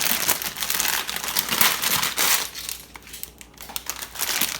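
Crinkly packaging of a blind-box mini figure being squeezed and handled by hand, an uneven run of crackling and crinkling that eases off for a moment about three seconds in.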